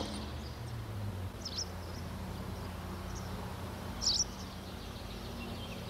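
Outdoor ambience: a steady low hum with a few short bird chirps, the clearest about four seconds in.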